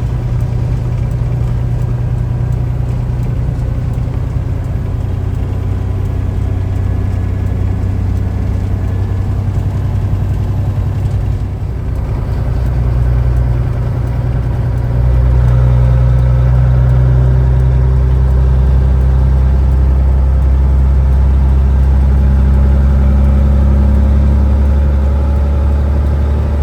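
Peterbilt 379 semi truck's diesel engine running steadily under way, a low drone heard from the cab. About halfway through, the low drone grows louder and stays so.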